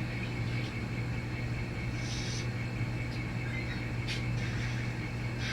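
N scale model locomotive creeping slowly along the track as it eases up to couple onto cars: a steady low hum with a faint high whine, and a few brief clicks about a second or two apart.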